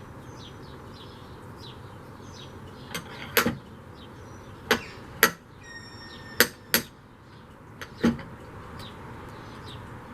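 A hammer striking metal, about seven sharp blows that start about three seconds in, irregularly spaced and often in pairs. A short metallic ring follows one blow near the middle.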